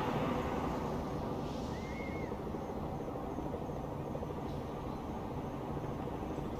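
Night-time town ambience: a steady low rumble of distant traffic, with faint, evenly repeating high insect chirps. A short two-note chirp comes about two seconds in.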